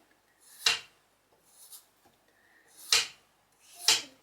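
A kitchen knife cutting through vegetables and striking a wooden cutting board: three sharp knocks, each led by a short rising scrape as the blade goes through.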